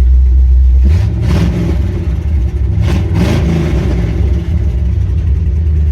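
V8 engine of a Chevy S10 pickup idling, blipped twice: the pitch rises and falls about a second in and again about three seconds in before settling back to idle.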